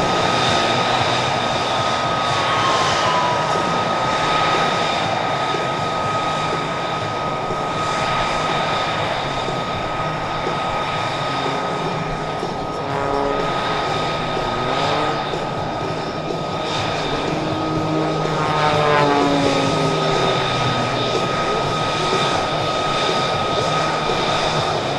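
MXS aerobatic monoplane's piston engine and propeller running at power as it takes off and flies, its pitch sliding up and down several times in the second half as it passes and manoeuvres.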